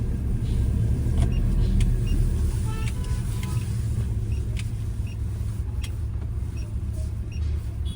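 Motor vehicle on the road: a steady low rumble of engine and road noise, with a few faint clicks and short high tones over it.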